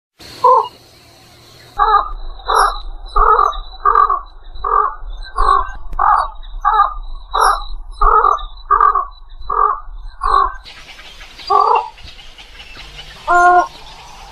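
Egret calling: one short call, then a run of about a dozen short calls at roughly one and a half a second, with two more spaced out near the end.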